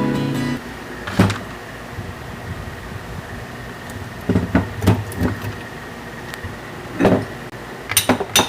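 Scattered knocks and clicks of tools and metal parts being handled while a fan motor is taken apart, with a dense run of clinks near the end and a faint steady high tone underneath. Acoustic guitar music ends in the first half second.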